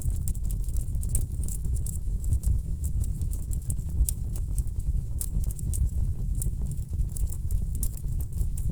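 Wood fire burning in a fireplace: a steady low rumble of the flames with frequent irregular crackles and snaps from the burning logs.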